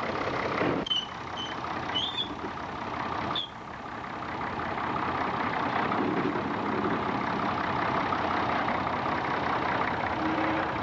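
Sawmill machinery running: a steady mechanical din of engine and saw, with a few short high squeals in the first few seconds. It dips briefly about three and a half seconds in, then builds back up and holds steady.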